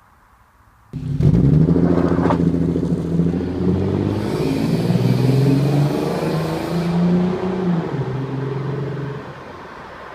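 Exhaust of a Mercedes-Benz W124 320CE's 3.2-litre straight-six, starting suddenly about a second in and revving, its pitch stepping up and down, then dropping back to a quieter run near the end.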